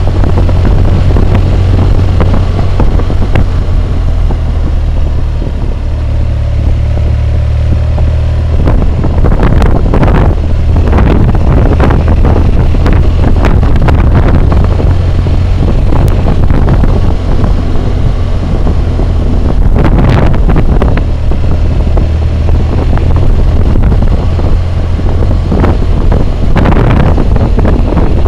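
BMW motorcycle riding along, heard through a helmet-mounted camera's microphone as a loud steady wind roar over a low engine drone, with gusts swelling several times.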